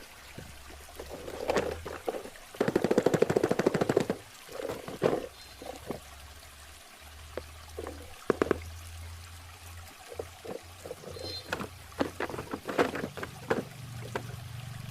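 Water trickling and pouring, with irregular clicks and splashes throughout and a dense rapid run of them from about two and a half to four seconds in.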